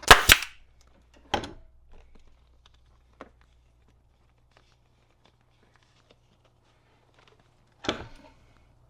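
Pneumatic staple gun firing staples through a vinyl seat cover into a seat pan: two sharp shots in quick succession at the start, another about a second later, and one more near the end, with faint handling clicks between.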